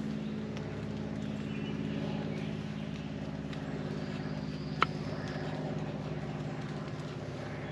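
Steady low drone of a distant motor, with faint small clicks and one sharp snap about five seconds in.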